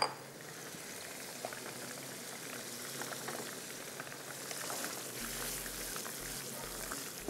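Keema sizzling and bubbling in hot oil in a pan as tomato purée goes in: a steady frying crackle with fine pops throughout. A sharp click comes right at the start.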